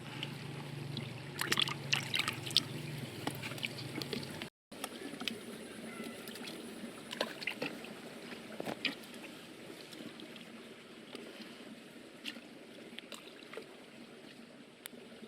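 Water sloshing and trickling, with scattered small splashes and sharp ticks. A low hum sits under the first few seconds, and the sound drops out for an instant about four and a half seconds in.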